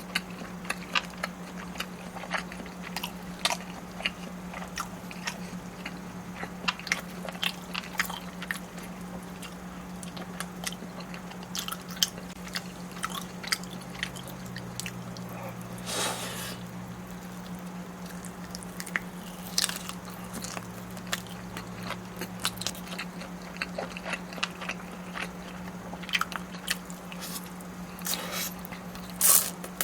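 Close-miked eating: a person biting and chewing food, with many irregular sharp clicks of teeth and mouth throughout, and a longer wet smear of sound about halfway through.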